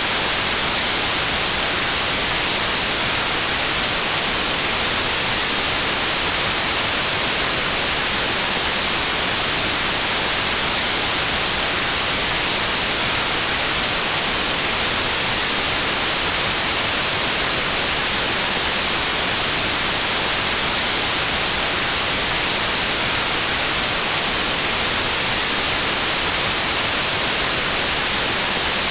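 Continuous white noise: a steady, loud, even hiss, brightest in the treble, that does not change.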